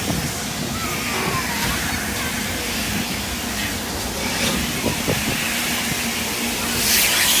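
Car wash water jets spraying over a car, a steady rushing hiss that grows louder near the end.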